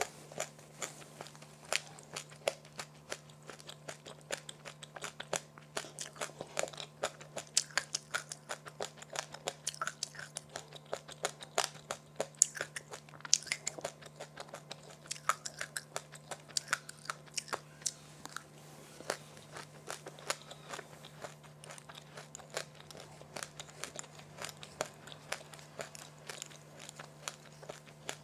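Crunchy food being chewed and bitten close to the microphone: dense, irregular crunching clicks, several a second. A steady low hum runs underneath.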